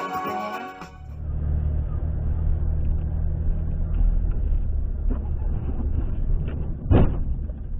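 Background music cuts off about a second in, giving way to a steady low rumble of a vehicle's engine and road noise picked up by a dashcam. A short, loud thump comes near the end.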